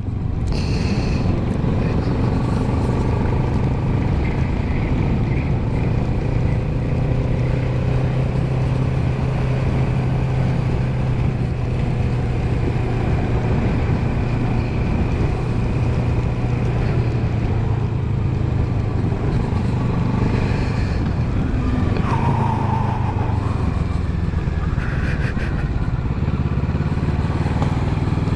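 Motorcycle engine running at a steady cruise, with wind and road noise over it.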